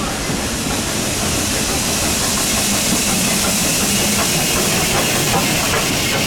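Steam locomotive hissing steadily as it releases steam.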